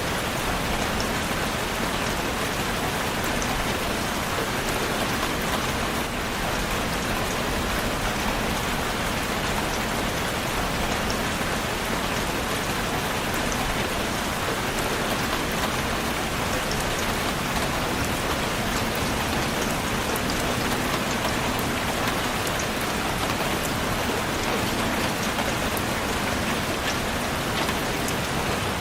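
Steady rainfall, with the fine ticks of drops hitting a surface heard through an even rushing hiss.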